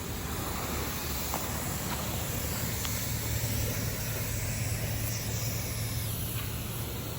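A steady low mechanical hum under an even hiss, with a few faint ticks in the first few seconds.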